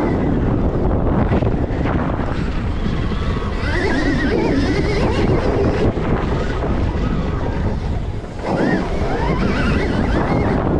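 Heavy wind rush on the microphone from riding a Stark Varg electric dirt bike, with a whine that rises and falls about four seconds in and again near the end.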